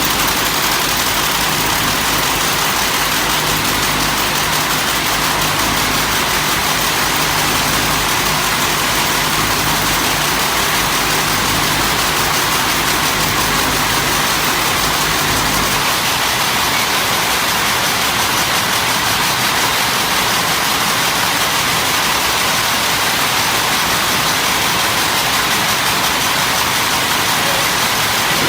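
Steady machine running with a loud even hiss over a low hum; the low hum drops away a little past halfway.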